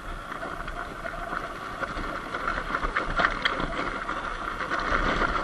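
Sur-Ron Light Bee X electric dirt bike riding on a dirt road: the motor's steady whine over the crunch and crackle of tires on loose dirt and gravel, growing louder.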